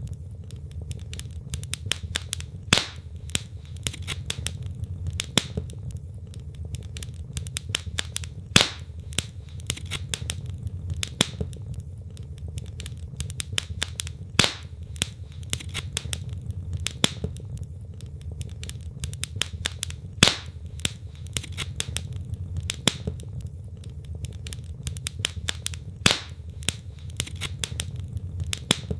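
Wood fire crackling in a fireplace: a steady low rumble of burning logs with frequent small snaps, and a louder pop about every six seconds.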